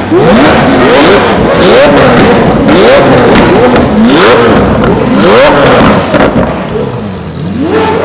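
Several Lamborghini engines revved hard over and over, overlapping blips that each climb in pitch and drop back. The revving eases off about six seconds in, and a new rev starts near the end.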